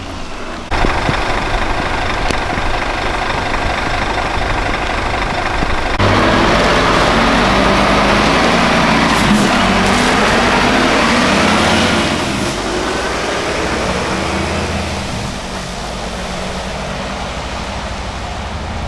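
Heavy military truck's diesel engine running. Its level jumps suddenly twice early on, is loudest with a rushing noise from about six to twelve seconds in, then eases off.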